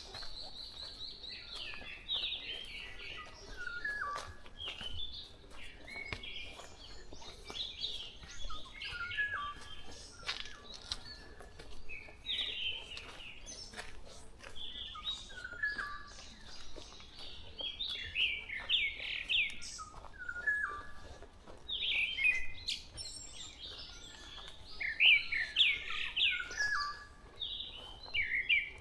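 Several forest birds singing and calling together in a dawn chorus, with short chirped and whistled phrases repeating and overlapping throughout. Scattered soft clicks from slow footsteps run underneath.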